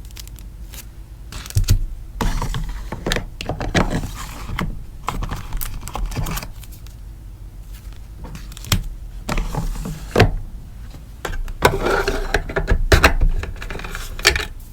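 Sticker sheets and packaging being handled for an order: irregular rustling and crinkling with short taps and clicks, busiest near the end.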